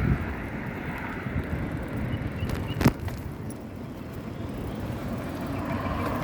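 Steady road traffic noise with a rumble of wind and rolling, heard while riding a bicycle, broken by one sharp knock about three seconds in.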